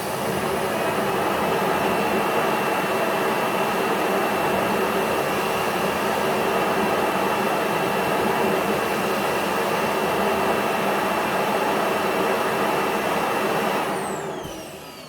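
Robot vacuum's auto-empty station sucking the dust bin out: a loud steady rush of suction with a high whine over it, winding down with a falling pitch near the end.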